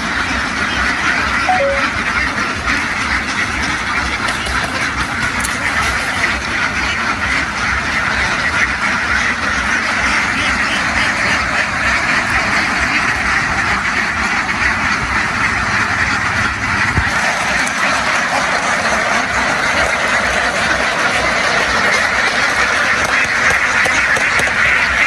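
A large flock of domestic ducks quacking all at once in a loud, unbroken din. A low hum underneath stops about two-thirds of the way through.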